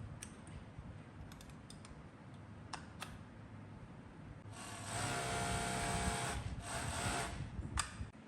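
Overlock sewing machine running at speed for about three seconds, with a brief dip partway through. A few light clicks come before it and another comes near the end.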